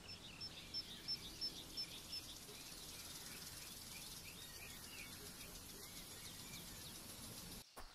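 Birds calling outdoors: one repeats a short high note about three times a second for the first two seconds, while other chirps carry on over a steady faint hiss of outdoor ambience. It cuts off suddenly near the end.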